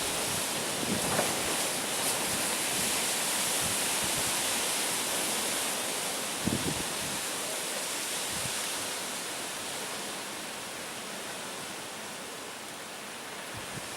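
Storm-force wind rushing steadily, with a few low thuds of gusts buffeting the microphone, one about six and a half seconds in; the wind eases somewhat in the second half.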